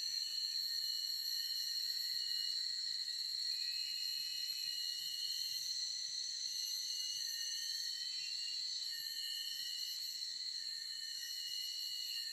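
Forest insect chorus: several crickets or cicadas trilling steadily at different high pitches, overlapping. A few voices stop and restart along the way.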